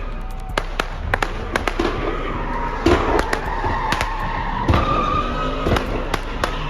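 Firecrackers going off in rapid, irregular cracks, with a car's tyres squealing in a wavering tone through the middle.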